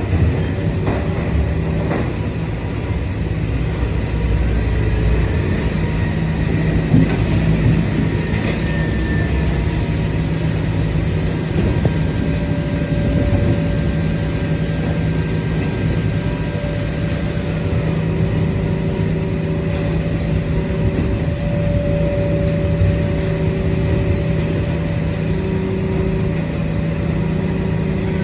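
Idromec T650 CLS scrap metal shear baler working: a steady heavy hydraulic drone with held whining tones that shift and come and go, and a few sharp metal knocks.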